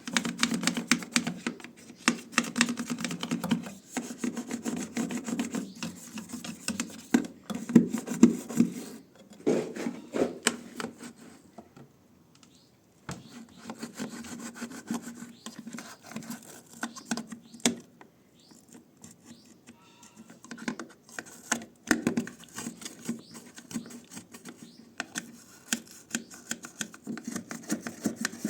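Scrubbing: quick, irregular rubbing strokes against a surface, stopping briefly about halfway through and again a little later.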